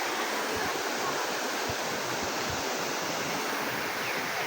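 Steady rushing of a waterfall: an even, unbroken sound of falling water.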